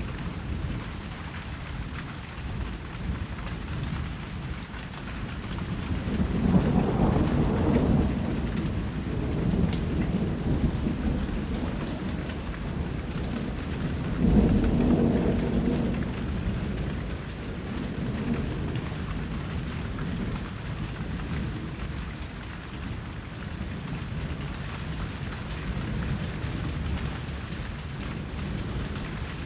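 Steady rain falling, with two low rolls of thunder swelling up: one about six seconds in lasting a couple of seconds, a second one about fourteen seconds in.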